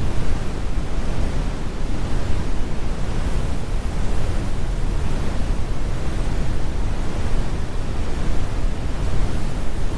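Synthetic brown noise: a steady, even rumble with most of its weight in the low end and the highs rolled off, with no change or events.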